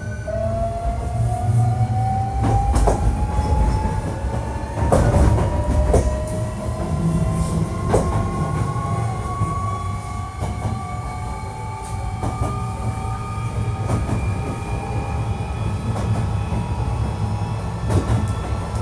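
Hankyu 1300 series electric train accelerating, heard from inside the car: its Toyo IGBT VVVF inverter gives a whine that rises steadily in pitch over the running rumble, and the wheels click over rail joints several times. This set is one known for an unusual, odd-sounding inverter tone.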